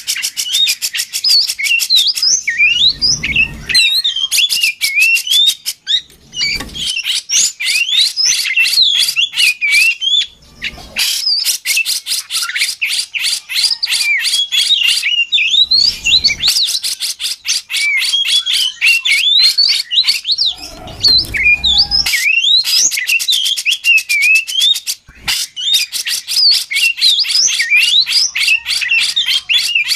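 Oriental magpie-robin (kacer) in full song: a continuous, varied run of clear whistled notes that glide up and down, mixed with stretches of very rapid trilled chatter, broken by a few short pauses.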